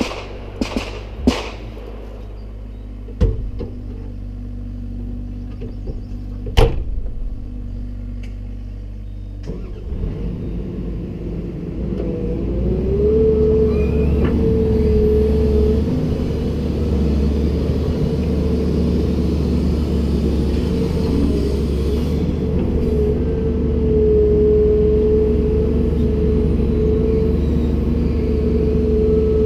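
Komatsu PC290-10 excavator running: the diesel engine at low speed with a few sharp knocks in the first ten seconds, then rising to a louder, steady run from about twelve seconds in with a steady whine over it.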